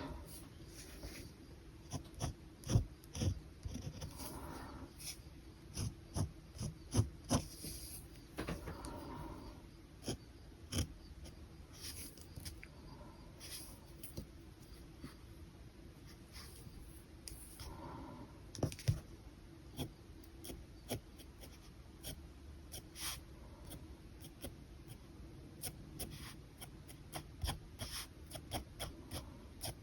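Pen drawing on paper: irregular scratches and ticks of the pen tip as strokes are laid down. A few soft breathy sounds come in between the strokes.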